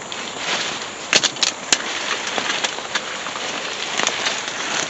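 A person pushing through thick undergrowth on foot: dense leaves and brush rustling, with twigs snapping and crackling, a cluster of sharp snaps a little over a second in.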